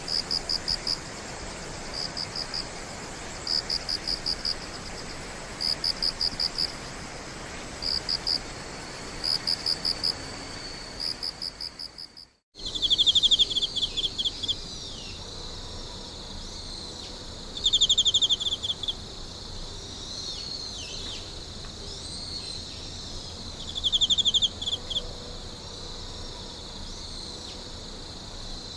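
Insects chirping in pulsed trills, in groups repeating every second or so. About twelve seconds in the sound fades to a brief silence and returns as a different chorus: lower trilled bursts several seconds apart over a steady high insect hum.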